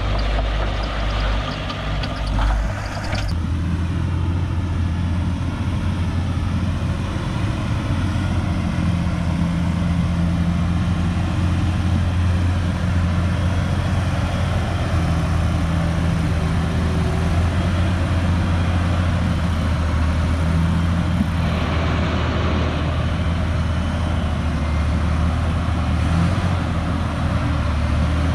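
A heavy diesel engine running steadily, its note shifting about three seconds in.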